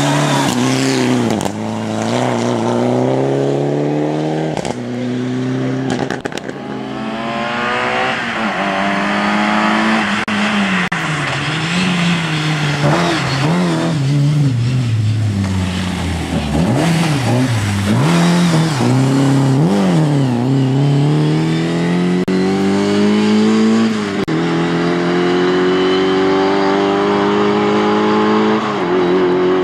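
Rally car engine driven hard, its pitch rising and falling repeatedly as it accelerates, lifts off and pulls away again. Sudden pitch drops near the end are upshifts under acceleration.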